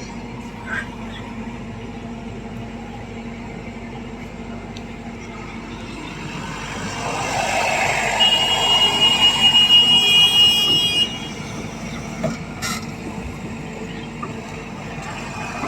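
Heavy diesel machinery engine running steadily. About halfway in it swells louder for several seconds, with a high steady tone over it that cuts off suddenly, followed by a single click.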